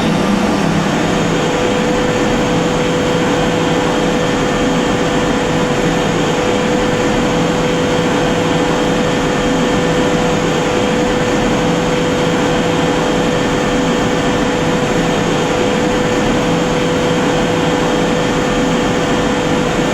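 Steam boiler running under test: a steady rushing hiss with a steady tone over it, unchanging throughout.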